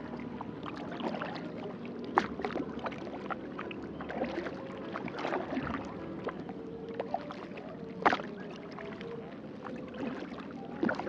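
Kayak paddle dipping into lake water: irregular small splashes and drips, with sharper splashes about two seconds in and about eight seconds in.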